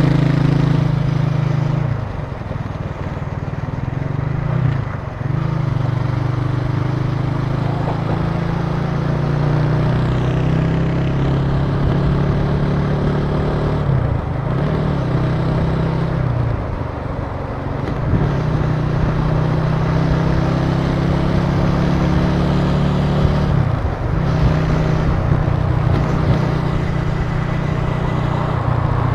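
Italika TC300 motorcycle engine running as the bike rides along, its steady engine note dipping briefly and picking up again several times.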